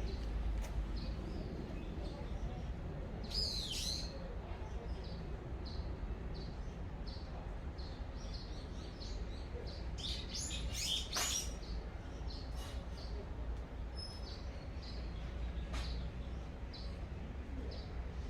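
Birds chirping: one short high note repeated about twice a second, with louder sweeping calls a few seconds in and again around the middle, over a low steady wind rumble.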